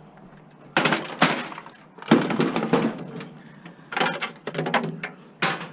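Four loud bursts of clattering and scraping as plastic and metal parts of an old fax machine are pulled and pried apart by hand, each lasting up to about a second.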